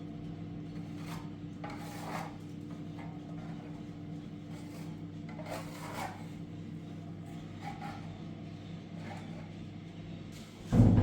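Irregular rasping strokes, a handful spread over several seconds, over a steady low hum.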